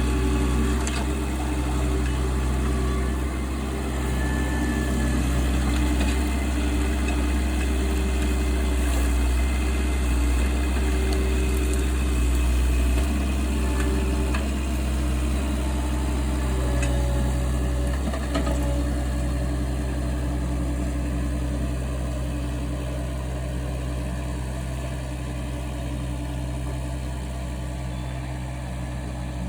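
Engine of tree-removal equipment running steadily at a low, even hum, easing slightly about halfway through.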